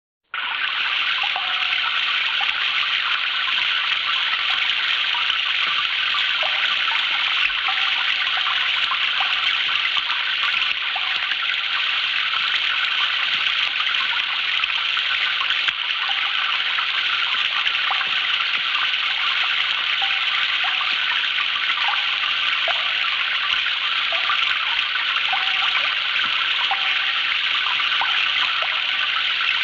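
Sound-effects recording of steady rushing, splashing water, starting suddenly out of silence, with small bubbling blips scattered through it.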